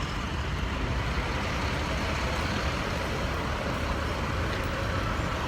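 Steady low rumble of heavy vehicle traffic, with no distinct events.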